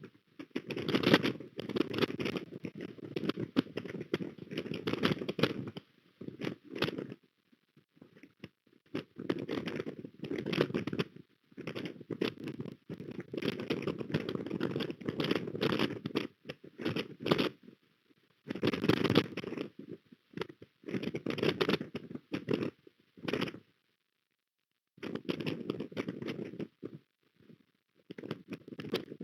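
Strong wind gusts buffeting the microphone of an osprey nest camera, coming in rough bursts of a few seconds with short quiet gaps between.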